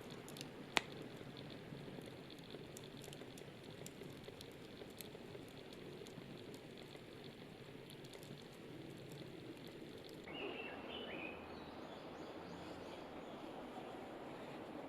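Wood campfire crackling with scattered pops, one sharp pop about a second in. About ten seconds in it cuts to a morning background with a few short bird chirps.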